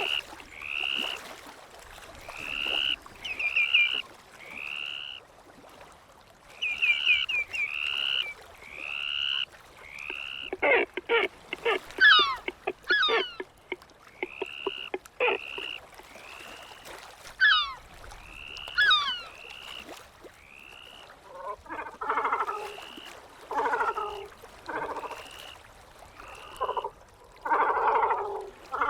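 Gulls calling over and over: short arched calls about once a second, a few quick falling squeals mixed in, and harsher, lower calls in the second half.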